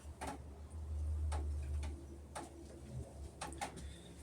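Light sharp clicks about once a second, two of them close together past the middle, over a low steady hum that swells for a couple of seconds near the start.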